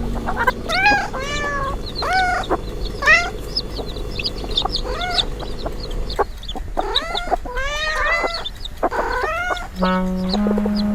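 Chickens clucking, a run of short rising-and-falling calls one after another. Background music comes in near the end.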